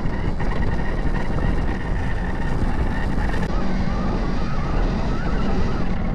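Off-road vehicle driving over dirt, with a steady engine or drive rumble and wind buffeting the microphone.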